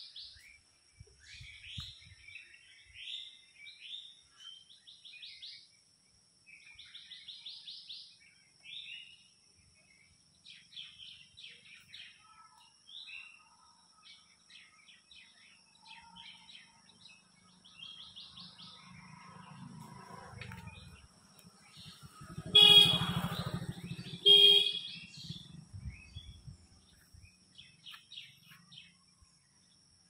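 Songbirds chirping and singing in short, varied phrases throughout. About three-quarters of the way through, two much louder, buzzy pitched blasts about two seconds apart stand out over the birdsong.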